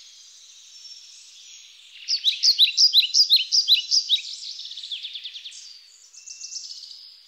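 Bird song: a rapid series of high, downslurred chirps repeating several times a second. The song gets louder about two seconds in, softens, and picks up again near the end.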